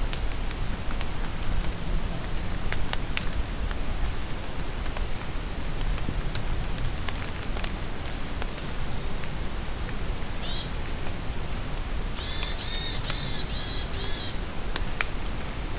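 Rain falling in a forest, a steady hiss with scattered drop ticks, while birds call. There are a few short high chirps, then about two seconds of rapid repeated notes three-quarters of the way through.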